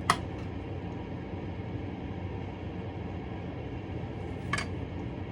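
Two sharp clinks of a serving utensil against a plate, the first right at the start and louder, a second about four and a half seconds in, over a steady low hum.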